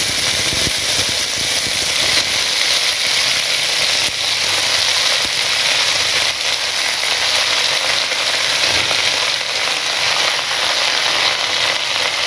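Fresh mint and coriander leaves frying in hot oil in a pan, a loud steady sizzle as more handfuls are tipped in.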